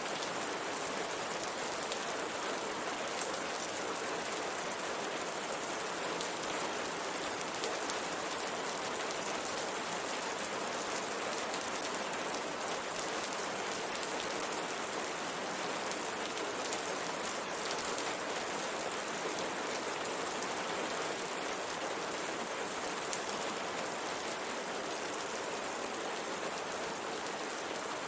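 Steady rain falling, with raindrops pattering on window glass.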